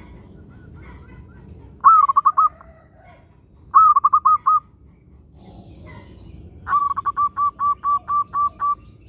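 Zebra dove (perkutut) cooing: three phrases of quick repeated notes, two short ones about two and four seconds in and a longer one of about nine notes near the end. A low steady rumble runs underneath.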